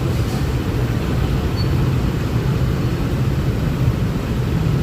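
Steady low rumble of a Honda Click 125i scooter ridden at an even pace: engine, road noise and wind on the microphone blended together.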